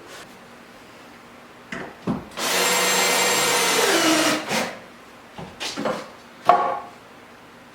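A power tool runs for about two seconds and its pitch drops as it winds down. Several sharp wooden knocks come before and after it.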